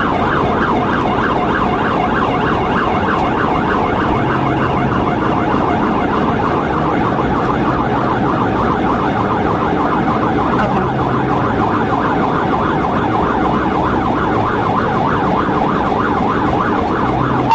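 Police cruiser siren sounding continuously in a fast yelp, rapidly rising and falling in pitch, over steady engine and road noise of the moving car.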